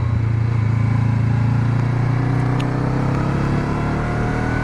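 Honda CB500X's parallel-twin engine running steadily while the motorcycle is ridden, its pitch rising slowly through the second half.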